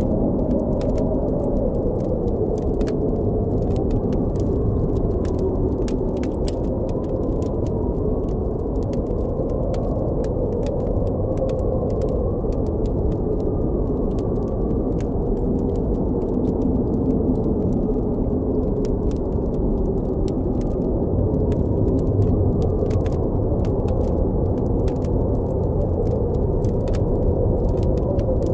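Blizzard wind blowing steadily with a low rumble and faint wavering whistles, over the sparse, light crackling of a campfire.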